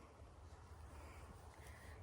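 Near silence: faint outdoor background with a steady low hum.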